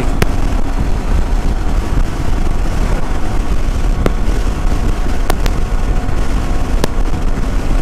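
Yamaha WR250R's single-cylinder engine running steadily at highway speed, largely buried under wind rumble on the microphone. A few sharp clicks stand out.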